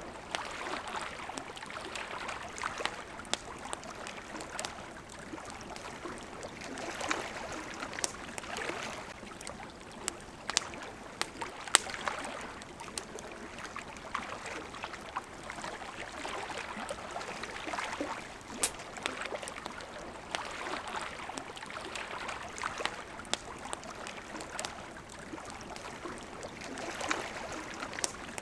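Water lapping in gentle swells that rise and fall every couple of seconds, with a campfire crackling over it: many small sharp pops, one louder pop near the middle.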